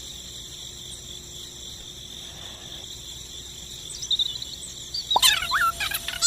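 Steady high cricket-like chirring, with a burst of quick, sharp high chirps and whistling glides about five seconds in.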